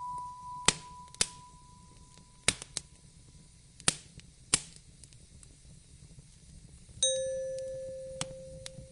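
Wood fire crackling with sharp, scattered pops over a low hiss. A soft held chime-like note fades out early on, and another sounds about seven seconds in and slowly fades.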